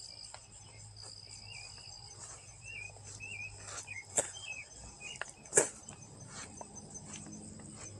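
Insects trilling steadily in the background, with a bird's short wavering chirps a couple of seconds in. A few sharp clicks break through, the loudest about five and a half seconds in.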